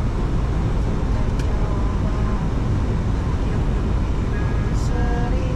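Steady flight-deck noise of a Boeing 737-800 in flight on approach: an even rumble of airflow and engines with no change in level.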